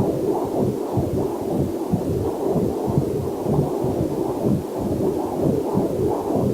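Heartbeat picked up by a fetal Doppler heart monitor: fast, even whooshing pulses, two to three a second, with a faint waterfall hiss mixed in underneath.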